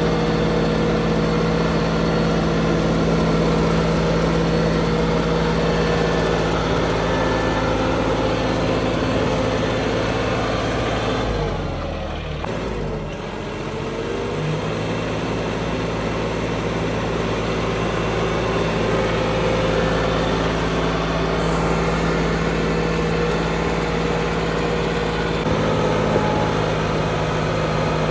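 Tractor diesel engine running steadily. About twelve seconds in, its note briefly drops and then climbs back.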